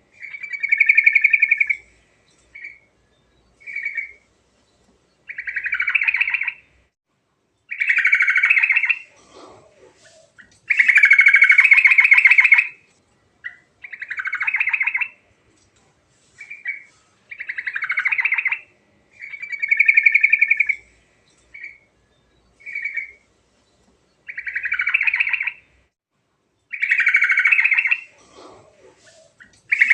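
Yellow-vented bulbul (trucuk) singing: loud, rapid trilled phrases a second or two long, repeated every couple of seconds, with short single notes between them.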